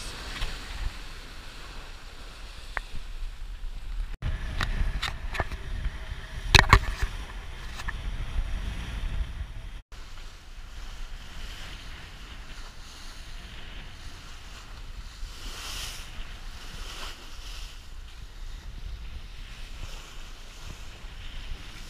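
Sailboat under way in strong wind and waves: water rushing along the hull and wind buffeting the microphone, with a loud knock about six and a half seconds in. The sound cuts out briefly twice.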